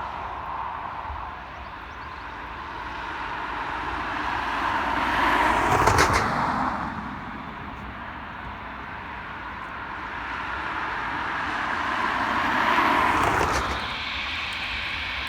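Two vehicles passing close by, one after the other. Each is heard swelling to a peak and fading away, the first about six seconds in and the second about thirteen seconds in.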